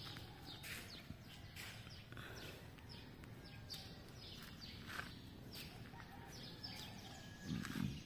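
Birds chirping faintly outdoors: short, high, falling chirps about once a second. A brief low sound comes near the end.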